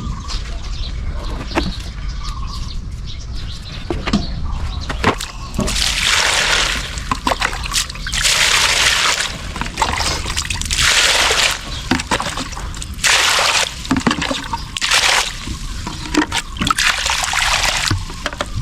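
Water sloshing and splashing in a series of bursts, each about a second long, starting about five seconds in, over a low steady rumble.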